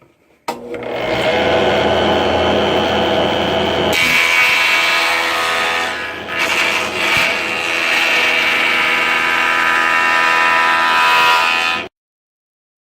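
Old belt-driven electric wood planer switched on and running steadily, its cutter freed with penetrating oil after being nearly seized. About four seconds in the sound turns higher and brighter as a board is fed through and planed. It cuts off suddenly near the end.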